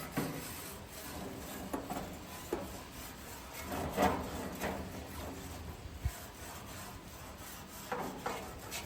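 Intermittent scraping and knocking, a few short strokes spread a second or more apart, the loudest a rasping scrape about four seconds in.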